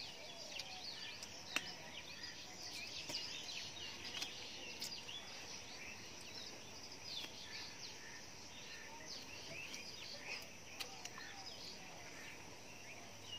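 Birds chirping steadily, a busy scatter of short high chirps and trills from several birds, with one sharp click about a second and a half in.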